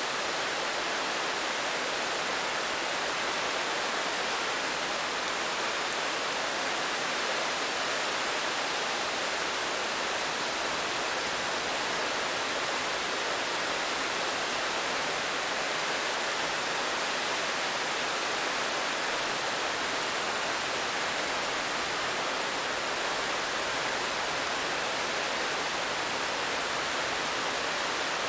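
Steady rain, an even hiss that holds at one level throughout, with no single drops or other sounds standing out.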